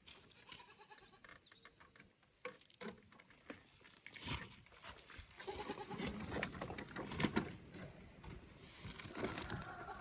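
Faint animal calls, with scattered clicks and knocks.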